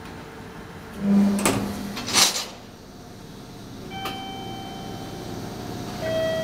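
Train car creeping in to couple: a clank with a brief low hum about a second in, then a short sharp hiss about two seconds in. Later, steady tones start about four seconds in and again about six seconds in.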